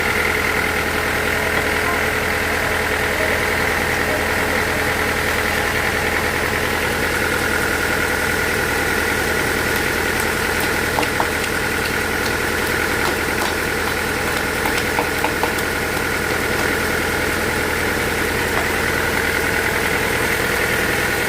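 Sawmill machinery running steadily: a constant mechanical drone with a steady high whine, and a few faint clicks past the middle.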